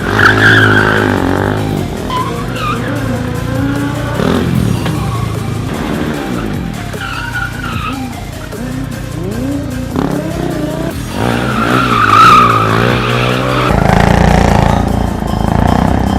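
KTM single-cylinder stunt motorcycle revving up and down through a 180 shuffle rollback, with the rear tyre skidding and squealing on the pavement, loudest about a second in and again about twelve seconds in.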